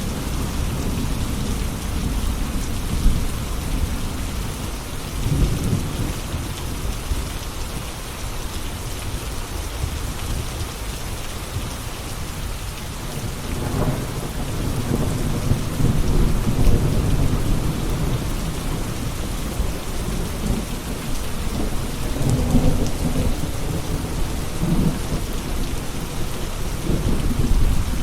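Steady rain falling, with low thunder rumbling in slow swells that build and fade several times.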